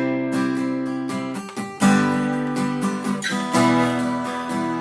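Solo acoustic guitar strumming chords, the instrumental introduction of a song just after a count-in.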